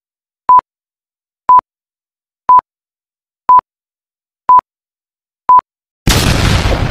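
Six short, identical beeps, one each second like a countdown, in dead silence, then a loud noisy boom just after six seconds in that dies away slowly: an edited-in intro sound effect.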